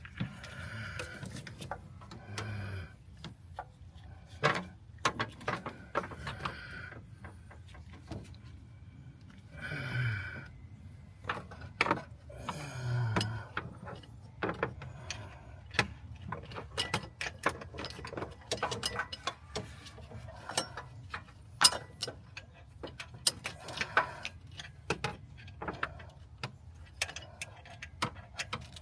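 Hand tools working on bolts in a car's engine bay: runs of quick ratchet clicks and scattered metal clinks and knocks, the clicking coming thicker in the second half.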